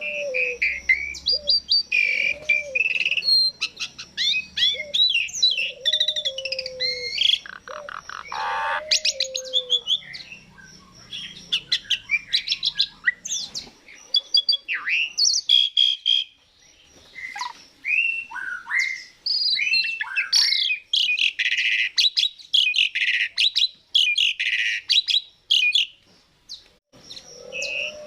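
Asian pied starling (jalak suren) singing a long, varied song of whistles, chatters and quick sweeping notes, with repeated low arched whistles through the first half. The song pauses briefly about halfway through and again near the end.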